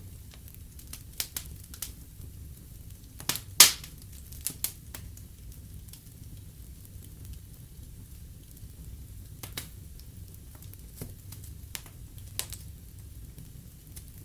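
Wood fire in a fireplace crackling, with irregular sharp pops over a steady low rumble of flame; the loudest pop comes about three and a half seconds in.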